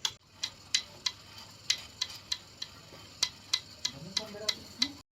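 Wooden handloom clacking in a steady weaving rhythm, about three sharp knocks a second; it cuts off suddenly near the end.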